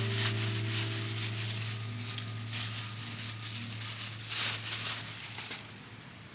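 The last chord of background acoustic-guitar music rings on and fades out over about five seconds. Over it come several short bursts of rough rustling or scraping noise.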